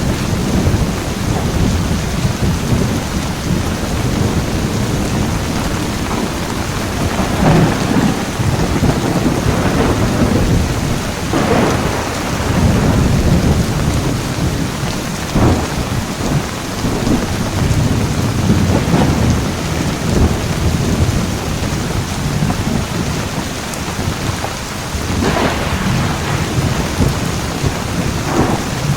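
Heavy rain falling steadily through a thunderstorm, with a continuous low rumble of thunder and several short, sharp thunder cracks that stand out above the rain.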